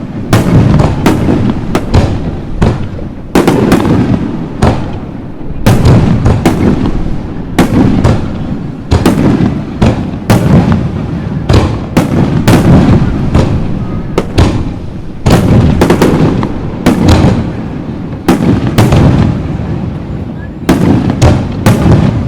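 Aerial fireworks shells bursting in a dense barrage: deep booms overlapping with sharp cracks, several a second without a break.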